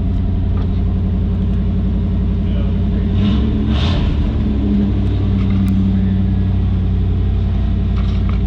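A 1991 Pontiac Firebird's 305 TBI V8 idling steadily. There is a short burst of noise a little over three seconds in, and the engine note grows stronger for a couple of seconds after that.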